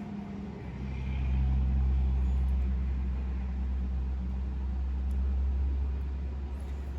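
A low mechanical rumble that swells about a second in, holds steady, then slowly eases off.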